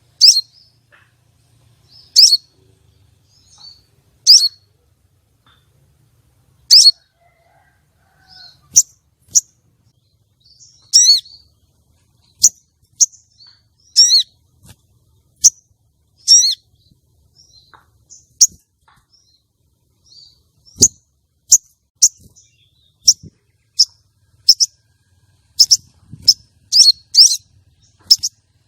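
Female sogon calling: short, sharp, high chirps repeated at irregular gaps of a second or two, coming faster near the end. This is the female's lure call, used to draw and excite male sogon birds. One low knock sounds about three-quarters of the way through.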